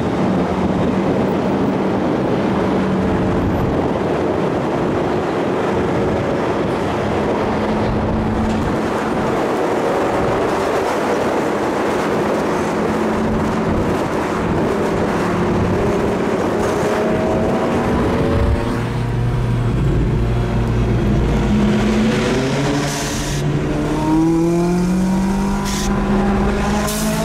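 Supercar engine running at speed with heavy road and wind noise. In the last third a deeper engine note comes in and its pitch rises as the car accelerates hard.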